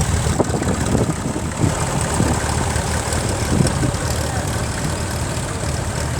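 Vintage tractor engine running at low revs, a steady low rumble.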